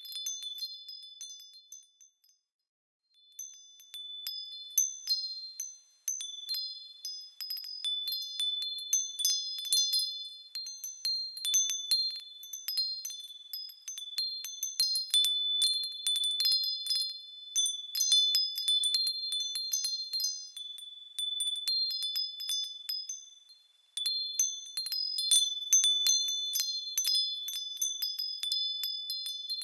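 Small high-pitched metal bells tinkling and ringing as they swing, with many light overlapping strikes in a continuous chime. They stop for about a second about two seconds in and fade briefly a little before the end, then start again.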